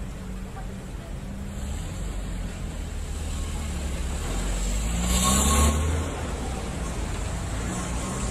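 Motor vehicle running on the road with a steady low rumble. About five seconds in, a louder noisy burst comes with a rising engine note, then it settles back.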